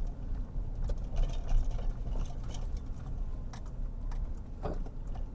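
Car interior while driving: a steady low rumble of engine and road noise, with scattered light clicks and rattles.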